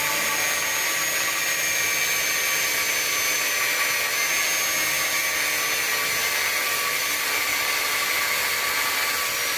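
Angle grinder with a cutting disc running steadily as it cuts the ends off a steel farrier's buffer; its whine sags slowly in pitch under the load of the cut.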